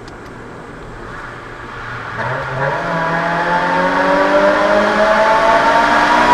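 Toyota AE111 Corolla Levin's 1.6-litre 20-valve 4A-GE four-cylinder, with individual throttle bodies and a modified Kakimoto Hyper Fullmega N1+Rev exhaust, accelerating in a tunnel. The exhaust note holds steady at first, then from about two seconds in climbs steadily in pitch and grows louder.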